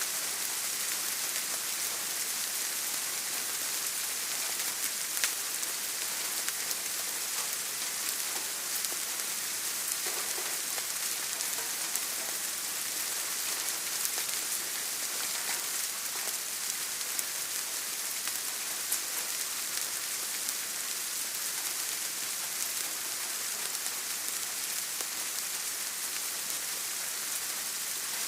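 Steady rain pattering on a surface, an even hiss with scattered individual drop ticks.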